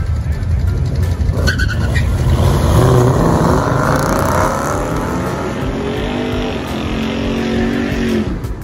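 Two Dodge Challenger R/Ts' 5.7-litre HEMI V8s rumbling at the start line, then launching about a second and a half in and accelerating hard down the drag strip. The engine pitch climbs through the gears and fades as the cars pull away, the older car sounding like it has an aftermarket exhaust.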